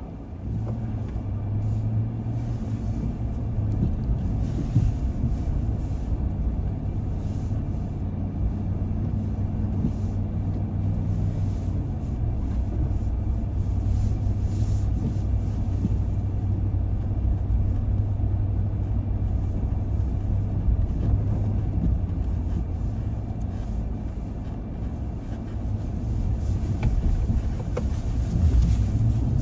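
Car being driven at a steady pace: a continuous low engine and road rumble with a steady hum, a little louder near the end.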